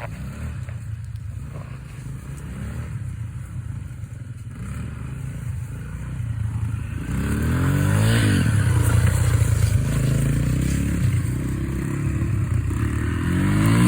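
Small dirt bike engine running and revving, growing louder about halfway through as it comes closer, its pitch rising and falling with the throttle.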